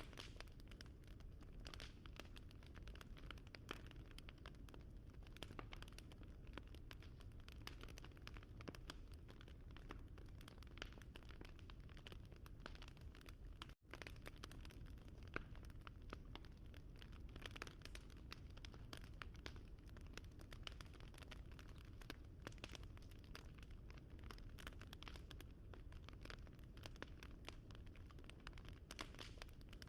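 Faint wood fire crackling: a steady run of small pops and snaps over a low rumble, cutting out for an instant about fourteen seconds in.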